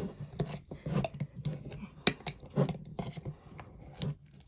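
Hands working a wax-covered candle mug and paper napkin: irregular small clicks, light knocks and rustling.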